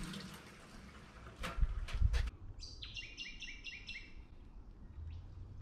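A few dull thumps, then a bird calls a quick run of about eight repeated chirping notes lasting about a second.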